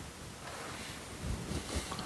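Faint handling noise from working on a bonsai: a few low bumps about a second in and a light rustle of branches.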